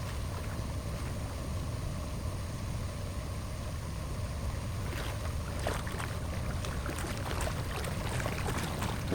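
Water rushing steadily through a drain or culvert, a low even rumble with a few faint clicks about five to six seconds in.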